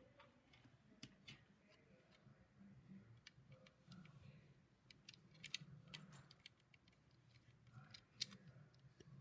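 Faint, scattered clicks and light rattles of plastic LEGO pieces being handled and pressed together, with one sharper click about eight seconds in, over a faint low hum.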